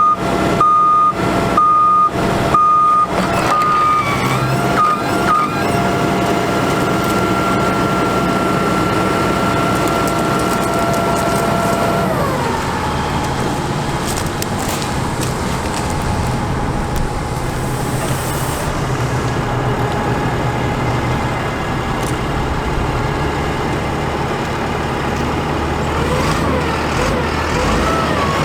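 International DT466 diesel in a digger truck running, with a reversing alarm beeping about twice a second for the first three seconds. A steady whine then holds and drops in pitch about twelve seconds in, as the engine speed falls.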